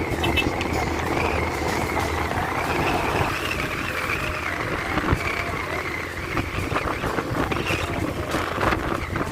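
Motorcycle riding along a road: steady engine and wind-and-road noise with passing traffic.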